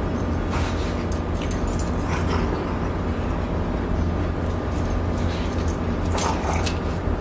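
Two dogs play-wrestling: several short bursts of scuffling and rattling, over a steady low hum.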